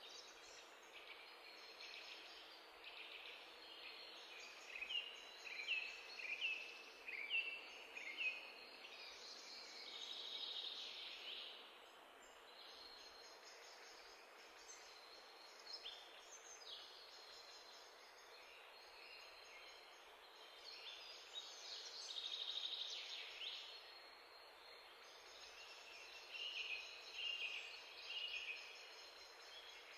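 Birds chirping and singing in short, quickly repeated phrases that come in bursts, over a faint steady hiss.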